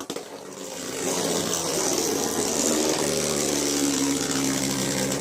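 Two Beyblade spinning tops whirring and grinding against each other and the plastic stadium floor, a steady hissing spin that starts about a second in after a few clicks.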